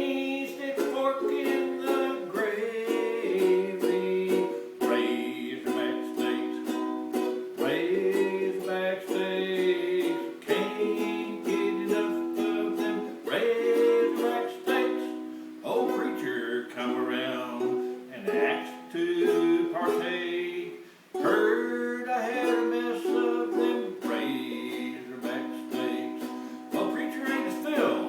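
Live acoustic music played on a ukulele, strummed steadily in a small room, with a brief drop in level about 21 seconds in.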